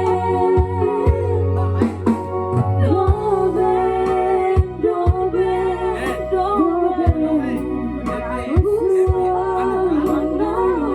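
A person singing a slow, held melody over backing music with a bass line and a regular drum beat.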